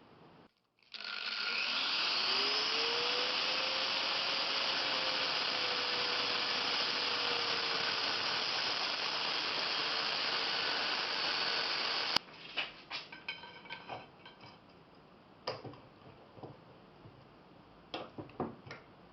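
An electric power tool starts up, its motor whine rising quickly and then running steadily with a loud hiss. It cuts off suddenly after about eleven seconds, and a few light clicks and knocks follow as things are handled.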